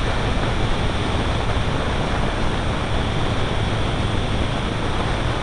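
Flyengine F200 27 hp engine of a prototype ultralight trike running at a steady speed, its low drone under a loud, even rushing of air.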